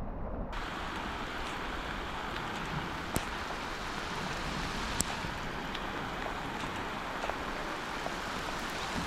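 Steady rain falling, an even hiss with scattered sharp drop ticks, coming in suddenly about half a second in.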